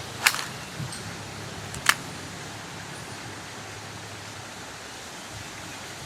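Two footsteps crackling on dry leaves, about a second and a half apart, over a steady hiss of wind in the trees.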